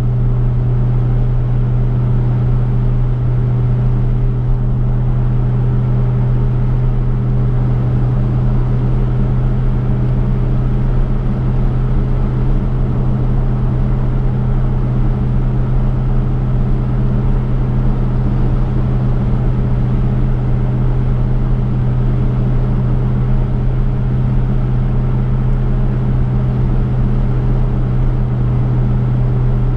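The V8 engine of a 1967 Chevrolet cruising at a constant speed, a steady deep drone with road noise under it.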